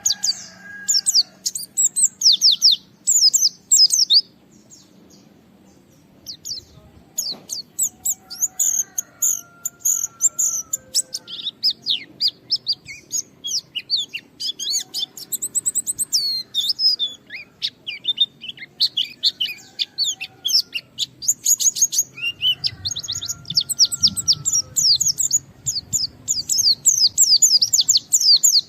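White-eye (pleci) singing vigorously in long runs of rapid, high-pitched chirps and trills, with short pauses between phrases and a few lower drawn-out whistled notes.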